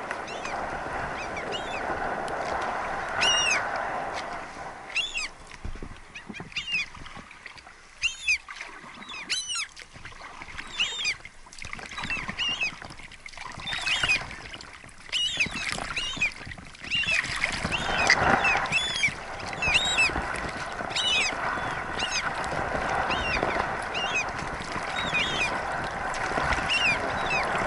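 Birds calling again and again overhead: short, high, hooked calls, several in quick succession at times, over a steady background hiss.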